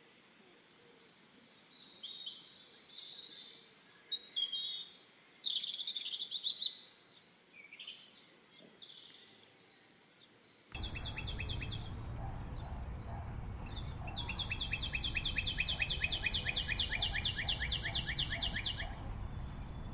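Wild birds chirping and calling in short, scattered phrases. About halfway through the sound changes abruptly to a steady low background noise with a rapid, evenly pulsing trill that repeats several times.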